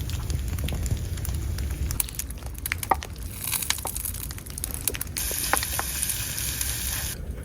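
Steady low wind rumble with many scattered small ticks and crackles. A brighter hiss comes in about three and a half seconds in and cuts off suddenly near the end.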